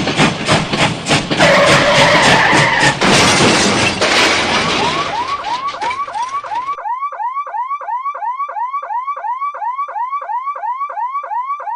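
Electronic siren whooping in quick repeated sweeps, about three or four a second, which stands out clearly in the second half. Before that there is a rapid ticking clatter mixed with noise.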